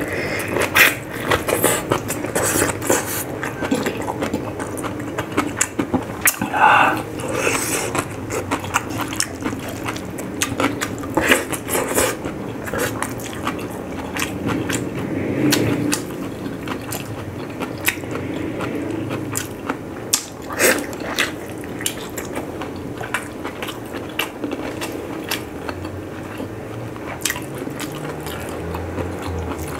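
Close-miked wet chewing and mouth sounds of a person eating soft boiled food by hand, with many sharp lip-smacks and clicks throughout.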